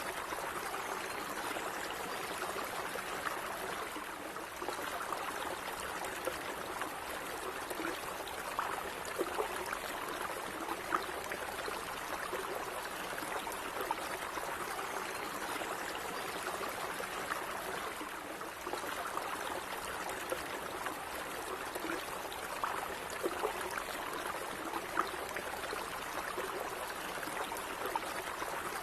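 Steady, gentle running water: a stream burbling and trickling, with small splashes and gurgles over a continuous rush.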